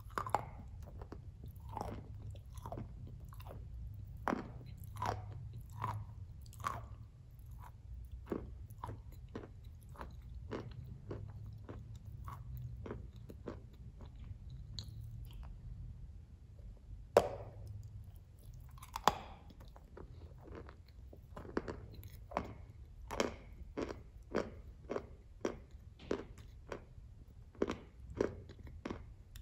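Crunching bites and chewing of a hard, chalky glazed tile close to the mouth: sharp crunches about one to two a second, with a lull around the middle and the loudest crunches a little past halfway.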